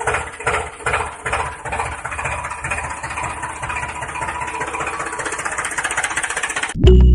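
Motor of a small model tractor running with a rhythmic chugging that quickens into a steady rattle about two seconds in. It cuts off suddenly near the end, when music starts.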